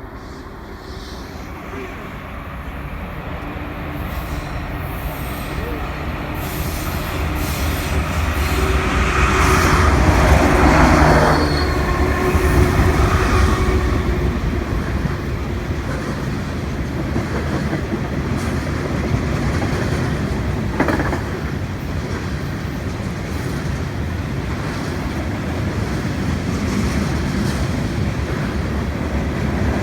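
CN freight train passing: the diesel locomotives' engine drone and the rumble of the cars build to their loudest about ten seconds in. The train keeps rolling by with a steady rumble, clickety-clack of the wheels and some wheel squeal.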